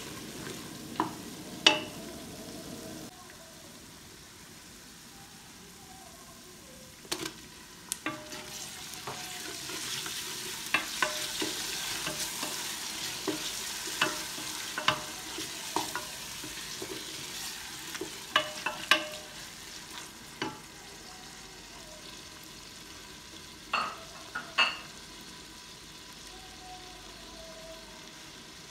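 Onion and tomato masala sizzling in a pressure cooker pot as a wooden spatula stirs it, with a steady frying hiss and a dozen or so sharp knocks and scrapes of the spatula against the pot's metal side and bottom. The sizzle is strongest in the middle, and the knocks thin out near the end as the stirring stops.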